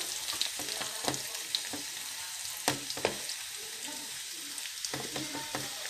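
Diced potatoes frying in melted butter in a nonstick pan: a steady sizzling hiss, with a few sharp clicks.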